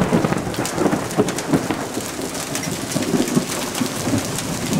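Heavy downpour with large hailstones hitting the ground and surfaces, a dense patter of many sharp hits.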